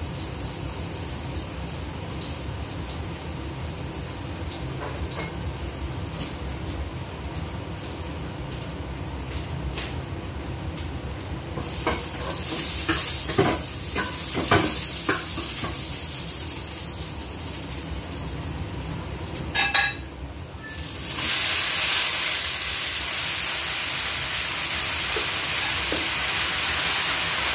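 Chicken and vegetable stir-fry sizzling in a hot frying pan while a spatula stirs it, with a few scrapes and knocks of the spatula on the pan and a sharp clatter shortly before the sizzle jumps to a loud steady hiss about 21 seconds in.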